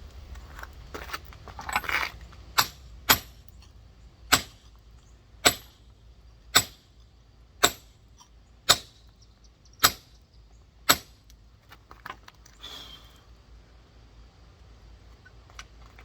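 Beat-up rock hammer tapping a giant geode along its scored split, shearing it so the halves will part: nine sharp, ringing taps about a second apart. A brief scraping noise follows shortly after the last tap.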